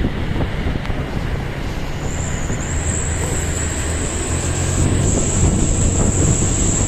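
Heavy truck engine running as the truck passes, a low rumble with road noise. A steady high-pitched whine joins it about two seconds in.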